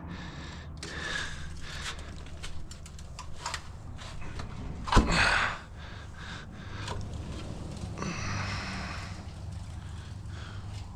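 Work and handling noises: scattered clicks and rustling, one loud knock about five seconds in, and a stretch of rustling near the end, over a steady low hum.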